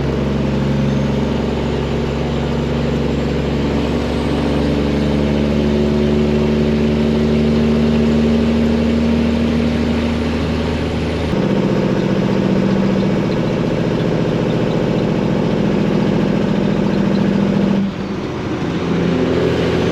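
Freightliner's Detroit diesel engine running loudly as the truck drives. Its note changes abruptly about eleven seconds in and drops out briefly near the end before picking up again.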